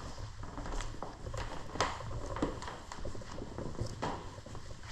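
Footsteps with scattered light knocks over a steady low rumble.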